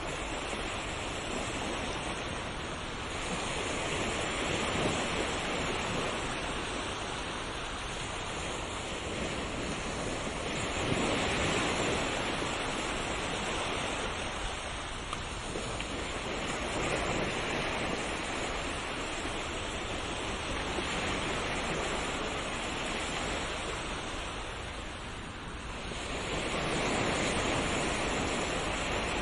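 Sea waves washing in: a continuous rushing that swells and eases every several seconds.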